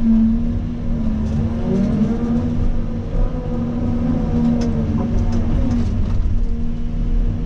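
Cat 336 excavator's diesel engine running steadily, with a whine that rises and falls between about 1.5 and 6 seconds as the hydraulics work the arm and bucket. A few light clicks of debris are heard.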